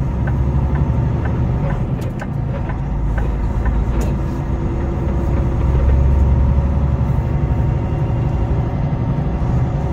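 Semi truck's diesel engine running as the truck drives: a steady low drone with a few faint clicks.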